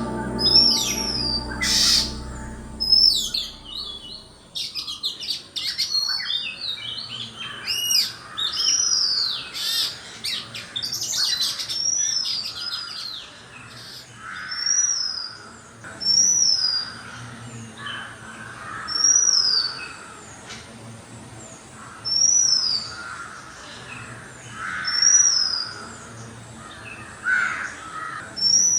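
Birds calling: a flurry of overlapping sharp, high calls, then a single call repeated about every three seconds, a short high note sliding down.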